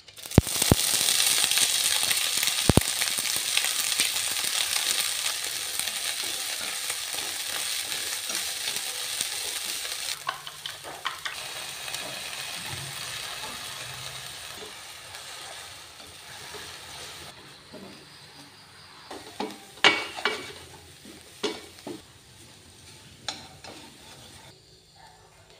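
Male papaya flowers sizzling in hot oil in a stainless steel pan. The sizzle starts suddenly with a few clicks as they go in, is strongest at first and fades slowly. Later a spatula scrapes and knocks against the pan a number of times as the flowers and egg are stir-fried.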